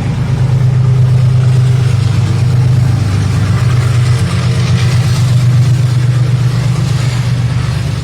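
EMD WDP4 diesel-electric locomotive running with a steady low engine drone, under a wide rush of wheel and rail noise from the moving train.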